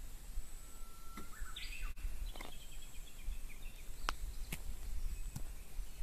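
A songbird sings one phrase about a second in: a held note that jumps up into quick higher notes, followed by a short run of high chirps. A few sharp clicks come over a low outdoor rumble.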